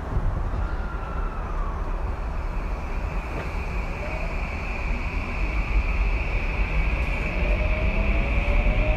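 Tokyu 2020 series electric train running, heard from inside the car: a low rumble from the wheels and track under a steady high tone. Whining motor tones rise in pitch partway through and again near the end as the train gathers speed.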